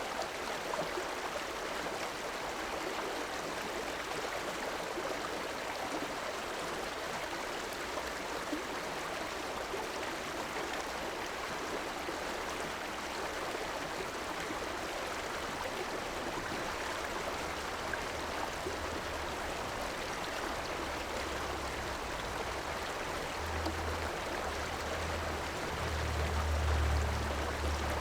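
A river flowing steadily, a continuous rush of water. A low rumble builds in over the second half and is strongest near the end.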